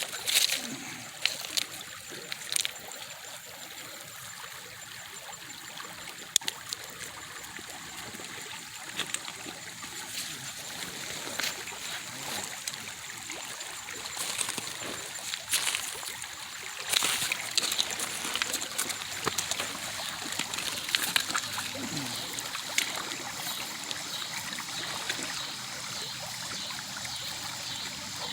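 Shallow creek water trickling and splashing over gravel, with scattered sharp clicks and splashes from stones or footsteps in the creek bed.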